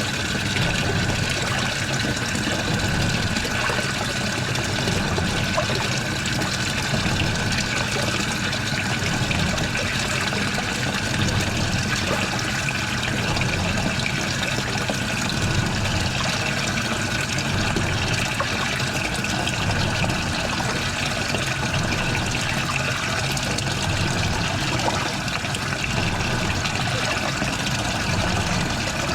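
Washing machine running with water trickling and splashing steadily inside the drum, over a constant machine hum and a faint steady high tone.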